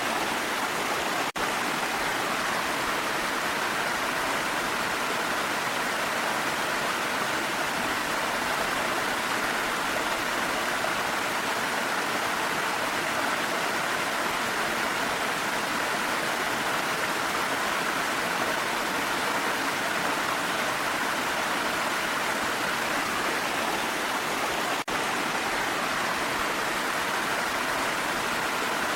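Steady rushing of a waterfall, an even wash of falling water, broken only by two momentary dips in level, about a second in and near the end.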